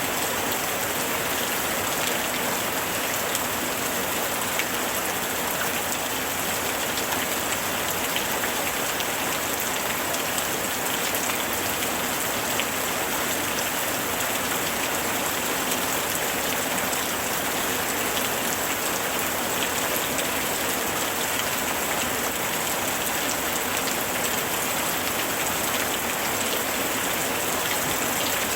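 Steady summer rain falling, with many fine drops pattering on a surface.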